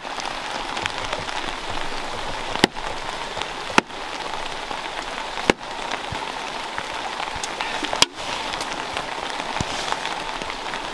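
Steady rain falling, with four sharp clicks spread through it.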